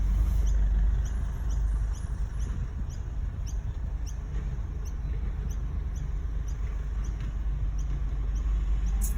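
Garbage truck's diesel engine running with a steady low rumble. A faint high chirp repeats evenly about three times a second over it, and there is a sharp click near the end.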